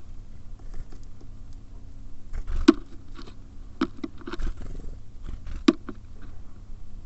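Small birds feeding at a bird feeder: irregular scratching and scuffling of feet and beaks on the feeder, with three sharp taps of beaks striking it, the first about a third of the way through, the last near the end.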